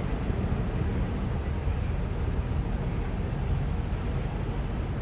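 Steady low rumble with a fainter hiss above it, with no distinct bangs or voices: outdoor background noise.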